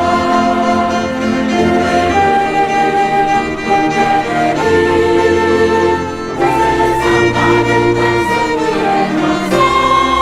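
A choir singing with string and orchestral accompaniment, held notes moving through a slow melody.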